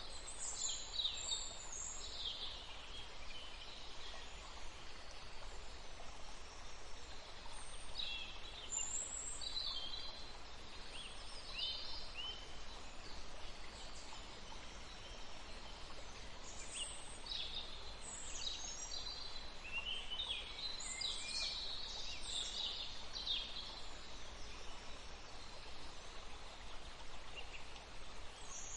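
Birds chirping and trilling in many short high calls throughout, over a steady hiss of running water.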